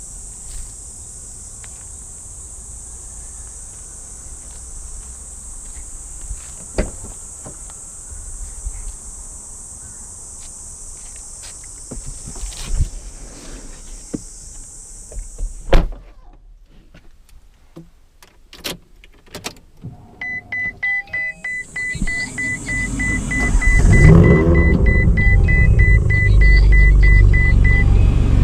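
A steady high hiss with scattered clicks, then a single loud clunk. A quick electronic chime beeps over and over for the last several seconds. About four seconds from the end, the Ferrari 458 Speciale's 4.5-litre V8 starts and runs loudly.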